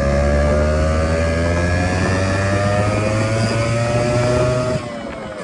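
Motorcycle engine pulling hard under acceleration, its note climbing steadily in pitch. Near the end the throttle closes, and the engine note drops and gets quieter.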